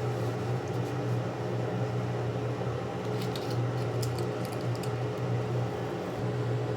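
Steady electric hum of a running fan in a small room, with a few faint soft clicks around the middle.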